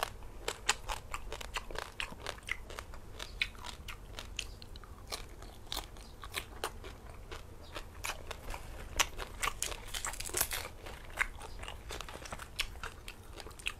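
Close-up biting and chewing of crispy-skinned roast pork: an irregular run of sharp crunches and crackles, a little louder about nine to ten seconds in.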